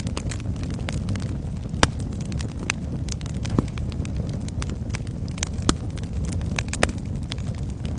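Wood fire burning in a fireplace: a steady low rumble of flame with irregular sharp crackles and pops, a few of them louder snaps.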